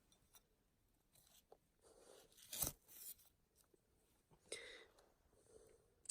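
Near silence, broken by soft rustling and crackling: a short cluster of crunches about two to three seconds in, and another brief rustle about four and a half seconds in.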